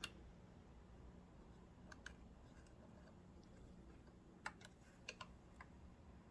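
Near silence with a few faint, scattered light clicks and taps, a couple of them in quick pairs, as small sewing-machine parts and tools are handled during reassembly.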